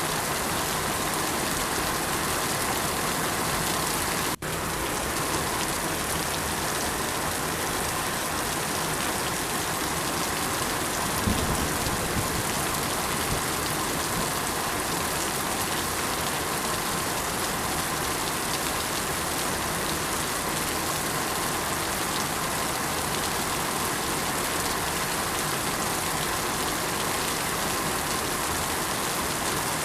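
Steady rain falling, an even hiss of many drops hitting surfaces, with a split-second break in the sound about four seconds in.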